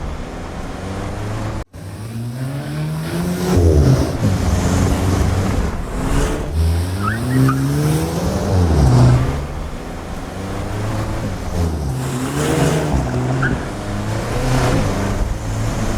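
Volkswagen Golf GTI Edition 50's 2.0-litre turbocharged four-cylinder engine and exhaust, revving up and dropping back several times, its note rising and falling in pitch. The sound cuts out for an instant a little under two seconds in.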